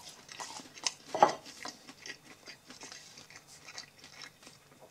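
A person chewing a mouthful of breaded chicken nugget: soft, irregular mouth clicks and crunching, with a brief louder sound about a second in.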